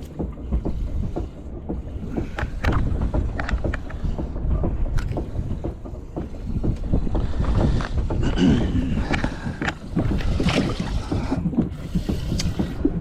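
Wind buffeting the microphone with a continual low rumble that rises and falls, over scattered knocks and taps from handling on the boat.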